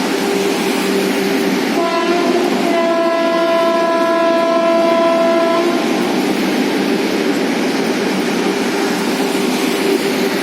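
Vande Bharat Express electric train set passing at speed, a loud, steady rush of wheels and air. A train horn sounds a short toot about two seconds in, then a longer blast of about three seconds.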